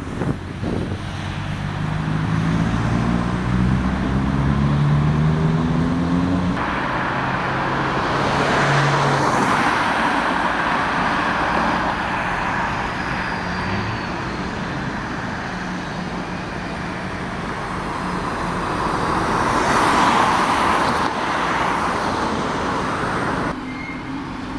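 A vehicle engine accelerating, its pitch climbing over the first few seconds, then an abrupt change to steady road traffic with two louder vehicles passing.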